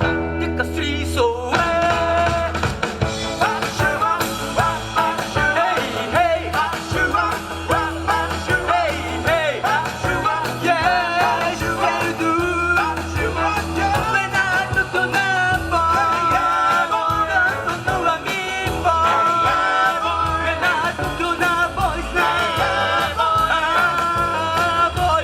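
Live rock and roll band playing a song, with a lead singer over the band.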